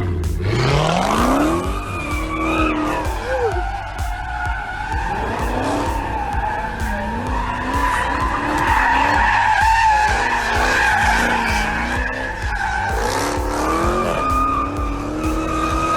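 A car engine revving up, then tyres squealing in long wavering screeches while the engine note rises and falls, as in a skid or drift.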